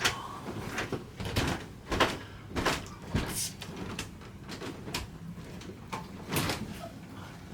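Scattered knocks and clicks of handling as sausages are hung on the sauna's small hooks, a few light strikes every second or so, the loudest near the start and about three seconds in.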